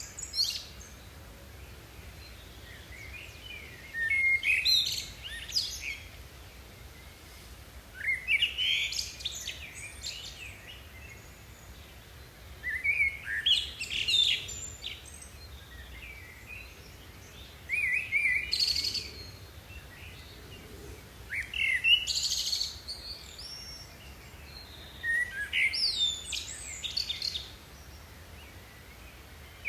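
A songbird singing short phrases of quick, high, gliding notes, repeated roughly every four seconds.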